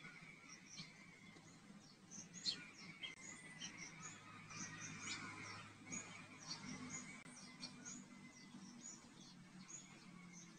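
Faint bird chirping in the background: many short, high chirps scattered throughout, over a faint low hum.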